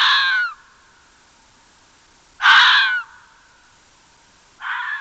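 Three harsh, drawn-out animal calls about two seconds apart: one is dying away in the first half second, one comes about two and a half seconds in, and a third starts near the end.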